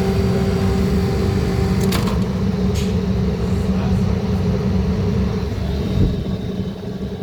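Walk-in fridge refrigeration unit running with a steady mechanical hum. About two seconds in there is a click and the higher tones in the hum drop out while the low hum continues.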